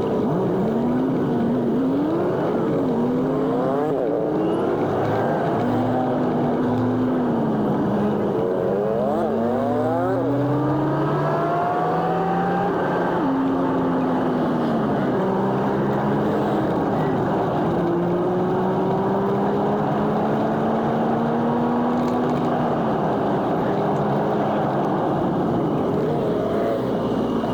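Engine and road noise of a jeepney in highway traffic, sped up four times, so the engine pitch sweeps up and down quickly as it accelerates and slows, over a constant rumble.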